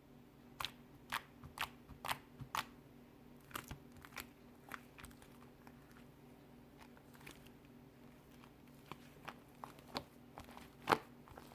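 Strawberry-chocolate slime being pressed and worked by hand, giving sharp sticky clicks and pops, about two a second at first, then irregular and sparser, with the loudest pop near the end. A faint steady hum runs underneath.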